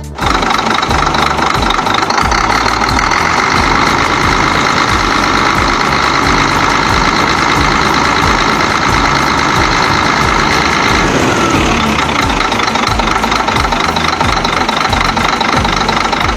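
Heavy diesel truck engine running loudly and steadily with a fast low throb, its pitch dropping about eleven seconds in.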